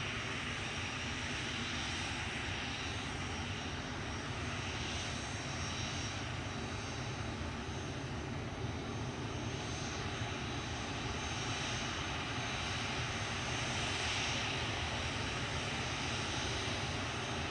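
Jet airliner engines running steadily, an even rumble with a faint high whine and no rise or fall.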